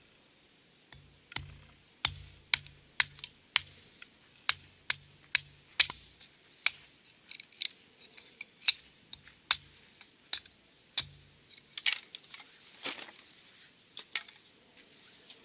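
Wood fire crackling, with sharp irregular pops, about two or three a second, and a brief cluster of crackles near the end.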